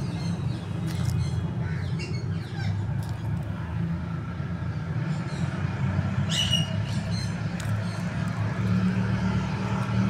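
Birds chirping, with short high calls falling in pitch in the first few seconds and one louder squawk about six seconds in, over a steady low rumble.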